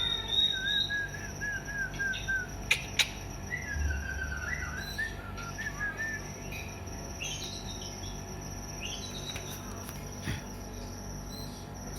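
White-rumped shama calling: short whistled chirps, with a quick run of repeated notes near the start and scattered chirps later. A steady high-pitched whine runs underneath, and there are a couple of sharp clicks about three seconds in.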